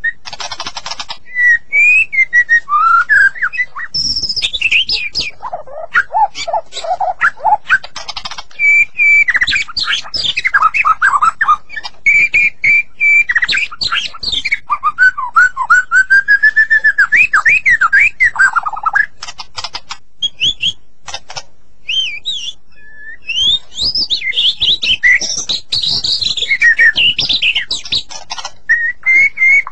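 White-rumped shama (murai batu) singing a long, varied song of rich gliding whistles and rapid chirps, broken by short pauses.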